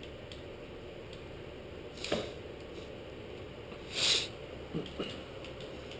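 Click-type torque wrench giving short clicks as the stator bolts are rechecked at their set torque of 8 pounds: one about two seconds in, a louder one about four seconds in, and two faint ones just before five seconds.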